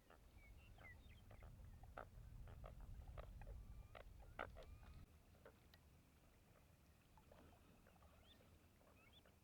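Faint waterbird sounds: many short clicks and chips, with a few small rising chirps towards the end. A low rumble sits under the first half.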